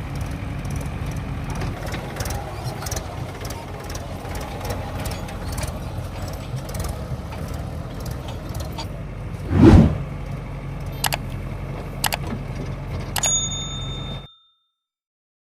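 Heavy diesel machine engine running steadily, with scattered clicks and knocks, one loud short burst about two-thirds of the way through, and a few sharp, ringing metallic clinks near the end before the sound cuts off suddenly.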